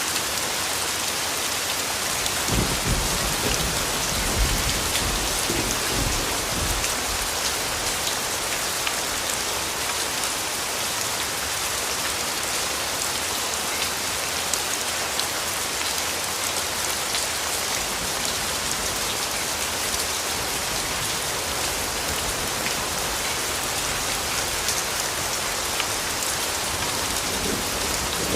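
Steady rain falling, a dense even hiss with scattered drop ticks. A low rumble of distant thunder rolls under it a few seconds in and fades out after a few seconds.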